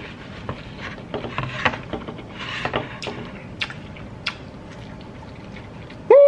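Close-up chewing and wet mouth sounds from a big mouthful of rice and meat: scattered small clicks and smacks over a steady background hiss. Near the end comes a short, loud voiced hum of appreciation.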